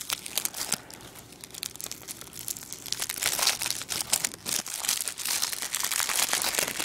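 Plastic wrap crinkling and tearing as it is pulled off a Blu-ray case, a dense crackle that is sparse for the first couple of seconds and gets busier from about three seconds in.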